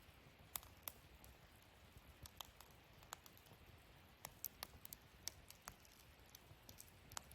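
Wood fire in a fire stand crackling: faint, irregular sharp pops and snaps, a dozen or so scattered through, over a low steady hiss.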